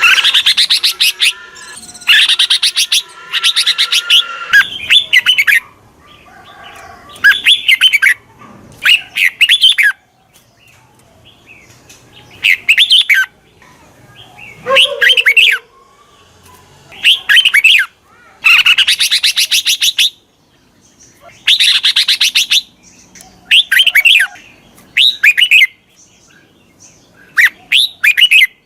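Red-whiskered bulbul singing: loud, bright, whistled phrases, some with quick chattering runs of notes, repeated every couple of seconds with short pauses between. It is a decoy-bird song of the kind used to stir up newly caught bulbuls and call wild ones in.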